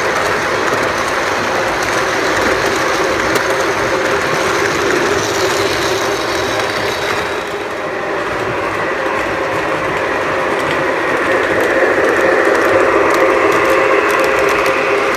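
Lionel O-scale model train running on its track: a steady electric motor hum with the wheels rattling over the rails. It dips a little about halfway, then grows louder again.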